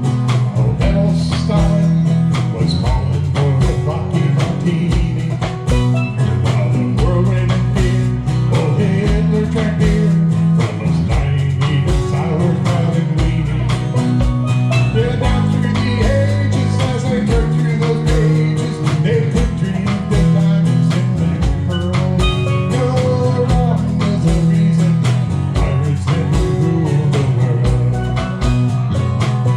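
Live band playing a country song, with guitar, steel drums, bass and a drum kit keeping a steady beat.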